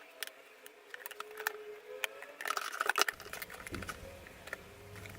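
A thin plastic cheese tub being cut open with a utility knife: scattered clicks, taps and scraping of the blade through the plastic, with a faint wavering squeak through the middle.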